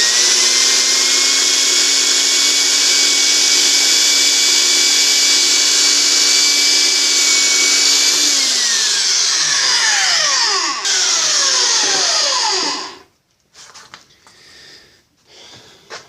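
Harbor Freight portable band saw running with a steady whine as its metal-cutting blade cuts through the end of a hickory pen blank. About eight seconds in the motor is switched off and winds down in falling pitch, stopping about thirteen seconds in, followed by a few faint clicks.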